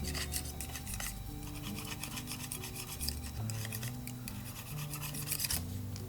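A barbecue grill brush scrubbing a fire pit's metal grill net with rapid, repeated scraping strokes, over background music.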